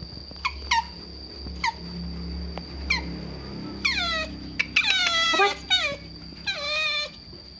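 Otter squealing to beg for food: short high chirps falling in pitch, a few spaced about a second apart, then from about four seconds in longer, louder squeals that drop in pitch, several in quick succession.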